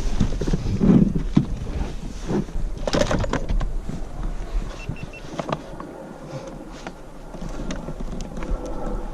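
Irregular knocks, clicks and rustling from handling a redfish on a kayak, busiest in the first few seconds and quieter after.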